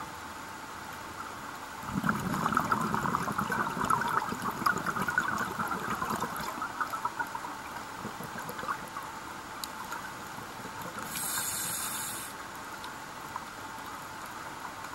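Scuba diver's open-circuit breathing heard underwater: exhaled bubbles rushing and crackling for about five seconds, then a brief hiss of the regulator on the next inhale, over a steady underwater hum.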